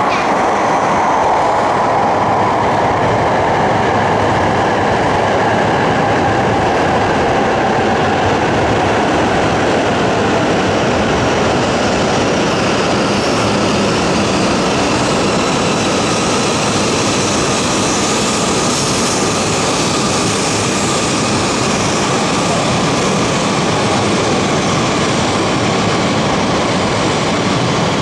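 E5 series Shinkansen train pulling into the platform, its cars gliding past with a steady rush of wheels and running gear as it slows to stop. A faint whine sinks slowly in pitch over the first several seconds.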